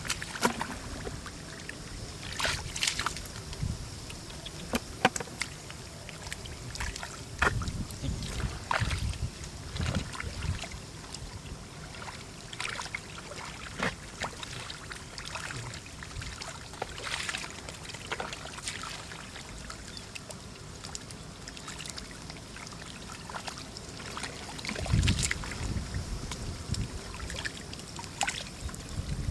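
Shallow muddy water being splashed and stirred by hand, with irregular small splashes and sloshes throughout and a few heavier low thumps near the end.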